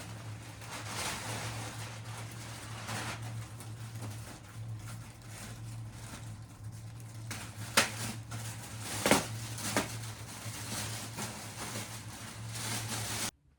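Steady low hum in a small room, with three sharp knocks in the middle, two of them about a second apart, as objects are handled.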